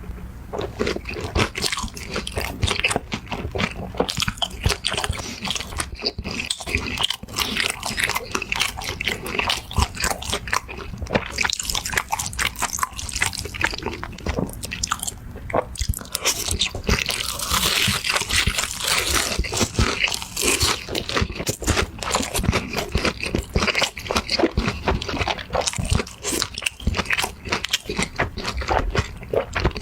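Close-miked eating: continuous crunching bites and chewing of crisp food, a dense run of irregular crackles and clicks.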